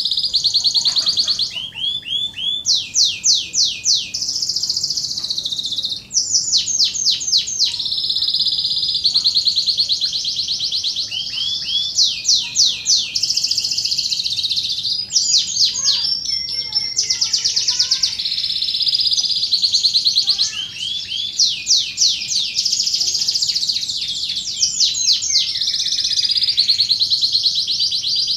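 Domestic canary singing a long, unbroken contest-style song: rapid high trills and quickly repeated sweeping phrases, the kind of recording used as a tutor song for training other canaries.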